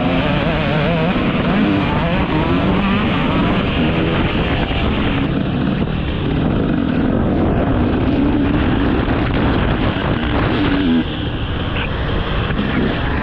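Dirt bike engine being ridden hard on a motocross track, its pitch rising and falling as the throttle opens and closes, with a dip in level about eleven seconds in.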